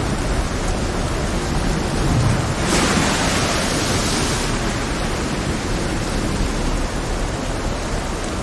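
Heavy rain over a rough sea: a dense, steady rushing with a deep rumble underneath. About three seconds in, a brighter hissing surge swells for a second or two, then falls back.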